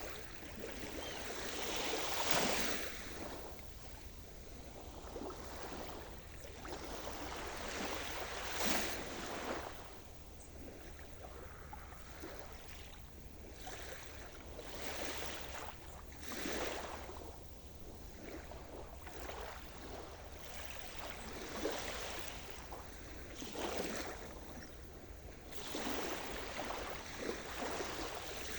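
Sea surf: waves breaking and washing in one after another, every few seconds, each a rising and falling rush of hiss, over a steady low rumble.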